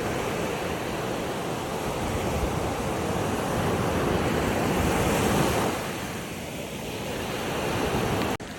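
Ocean waves washing on a shore: a continuous rush of surf that swells to a peak about halfway through, falls back, then builds again. It cuts out for an instant just before the end.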